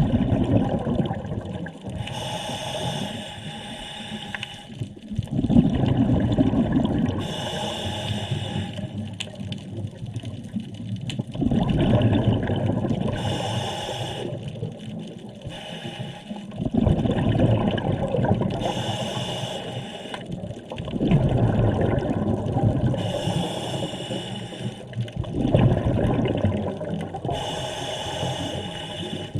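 Scuba diver breathing through a regulator underwater: a bubbling exhale and a hissing inhale in turn, about six breaths, one every five seconds or so.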